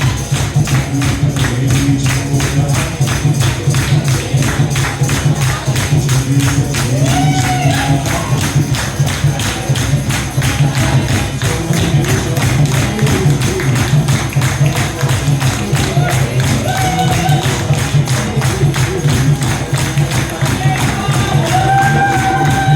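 Kirtan music: a fast, steady beat of jingling hand percussion over a continuous low drone, with a faint sung melody now and then.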